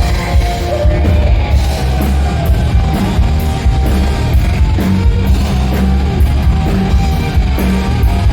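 Loud hard rock music with distorted guitars and a drum kit keeping a steady beat.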